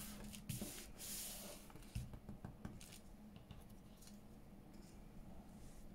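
Faint paper handling: a soft rub or slide of paper for about the first second and a half, then a few light taps and clicks.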